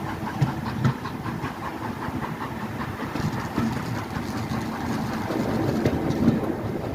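Railway carriage running along the track: a steady rumble with wheels clicking and rattling over the rails.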